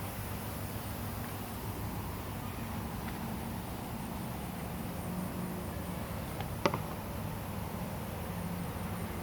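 Steady low background hum of ambient noise, with a single sharp click about two-thirds of the way through.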